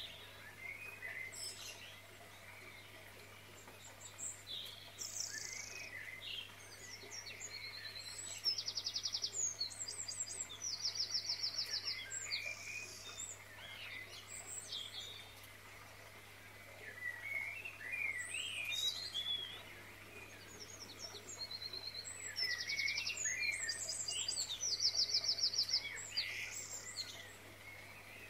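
Birdsong: several birds chirping and calling, with quick repeated trills that come and go in two busier stretches.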